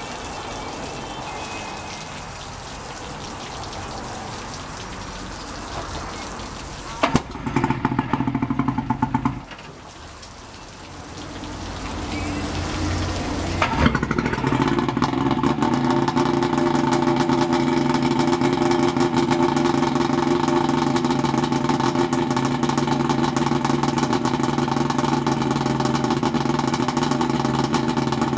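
1972 Johnson 65 hp two-stroke outboard motor being started. After a steady hiss, it cranks in a loud rapid pulsing burst for about two seconds without catching. It fires about 14 seconds in and settles into a steady run at idle.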